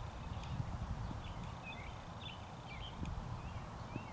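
Small birds chirping in short, quick rising and falling notes, over a low, uneven rumble.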